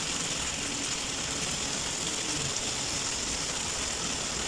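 Cubed chicken breast frying in a pan, a steady sizzle.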